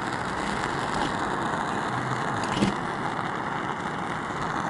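Gas canister heater burner hissing steadily, with one small click about two and a half seconds in.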